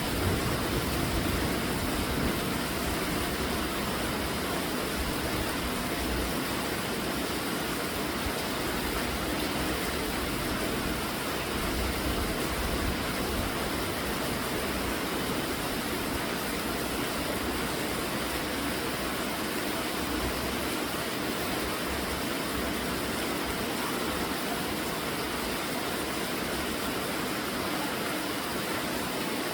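Steady rainfall: an even, unbroken hiss of rain, with an uneven low rumble underneath.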